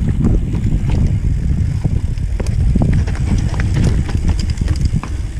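Mountain bike rolling over a rough dirt trail: a loud, steady rumble from tyres and wind on the microphone, with frequent rattles and knocks from the bike over bumps.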